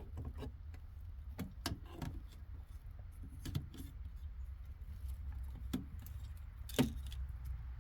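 Scattered light clicks, taps and rattles of small hard objects being handled, the sharpest about seven seconds in, over a steady low hum.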